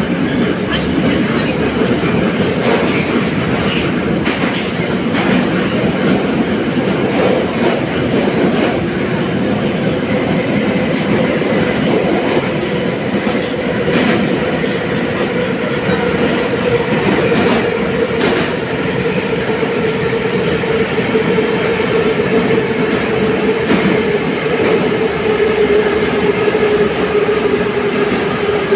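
81-717.5 metro car running through a tunnel, heard from inside the car: a loud, steady rumble of wheels on rail with a sustained whine that sinks slightly in pitch near the end, and a few sharp knocks around the middle of the run.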